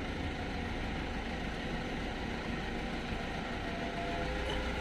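Steady low rumble of a running engine, with an even background hiss and no distinct knocks or clicks.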